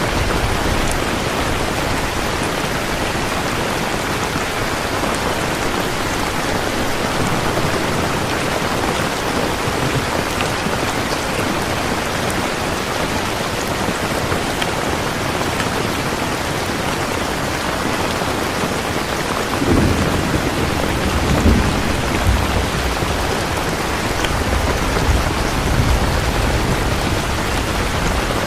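Steady, heavy rain falling, with low rumbles of thunder rolling in about two-thirds of the way through.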